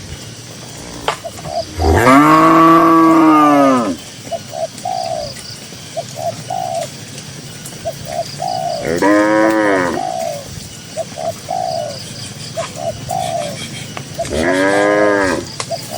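Cows mooing three times: one long moo of about two seconds, then two shorter ones later on. Between the moos, short low bird calls repeat.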